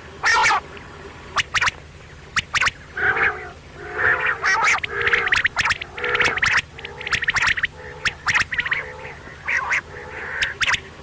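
Quail (batair) calling over and over: a dense run of short, sharp notes mixed with harsher, nasal calls.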